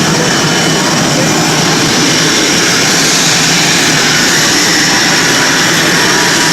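Jet aircraft engine noise, loud and steady throughout.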